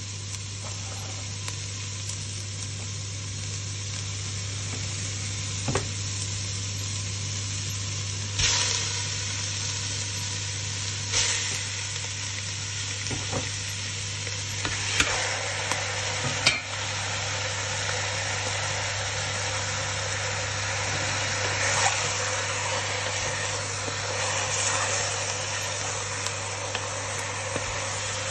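Oil sizzling in a metal pot as food fries. Raw chicken pieces are added, with a few sharp knocks, and from about halfway the sizzle is louder. A steady low hum runs underneath.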